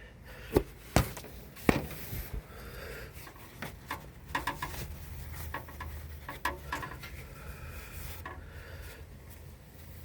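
Hand file scraping across the cut end of a metal line to put a small taper on it before flaring: a few sharp metal clicks in the first two seconds, then repeated short file strokes.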